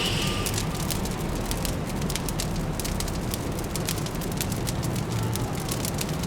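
Wood fire crackling with frequent sharp pops, over a steady low hum of distant city traffic.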